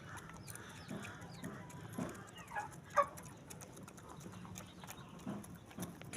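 Aseel chickens clucking: a few short calls, the loudest a sharp one about three seconds in.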